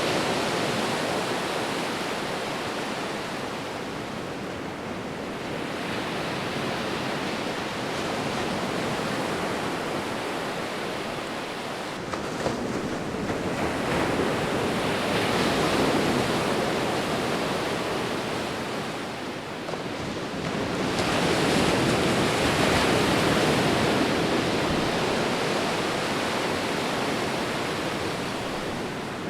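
Ocean waves breaking and washing on a shore, a steady rush that swells and eases slowly, with stronger surges about halfway through and again in the last third.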